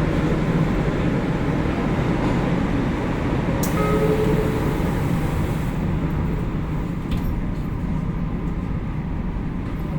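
JR Kyushu 813 series electric train running: a steady rumble of wheels and motors heard from inside the train, with a sharp click about three and a half seconds in.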